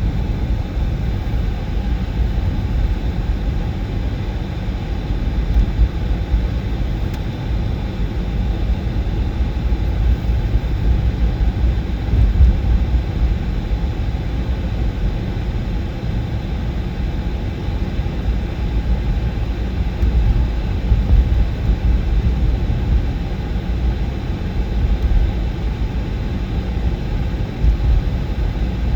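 Steady low rumbling noise that wavers in level throughout, with no distinct events.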